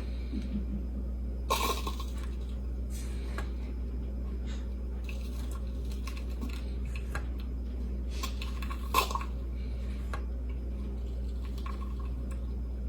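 Small clicks and clinks from a Staresso Mini portable espresso maker being hand-pressed as espresso comes out into a cup, the clearest about a second and a half in and again near nine seconds, over a steady low hum.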